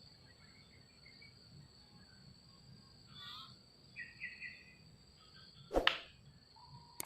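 A steady high insect drone, with faint short bird chirps and a brief twitter about four seconds in. About six seconds in there is a short, sharp swish.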